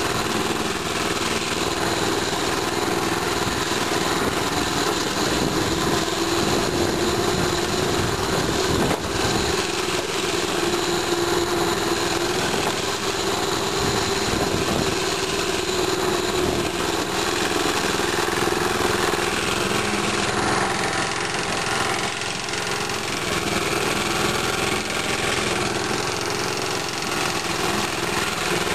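Small engine of a mini bike running steadily, a continuous drone with only slight changes in speed.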